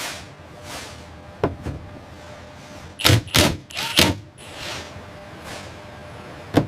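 A series of clunks and thuds: one about a second and a half in, a quick cluster about three seconds in, another at four seconds and one near the end, with softer whooshing sounds between them over a steady background.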